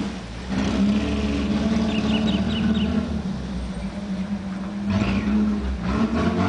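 A steady low engine hum, like a vehicle running, with a bird giving a quick run of short high chirps about two seconds in.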